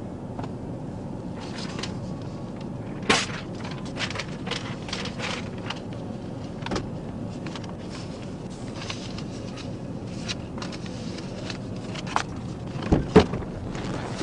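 Steady hum of an idling vehicle with scattered sharp clicks and knocks, the loudest about three seconds in and near the end.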